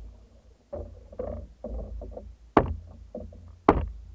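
Paddles of a longboat crew striking and pulling through the water: about five sharp splashing strokes at uneven intervals, over a low rumble.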